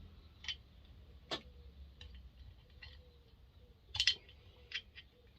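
Scattered light clicks and taps of small metal parts, screws and a hand screwdriver, being handled on a vintage McCulloch 7-10 chainsaw's case during disassembly. About seven separate clicks, the loudest pair about four seconds in.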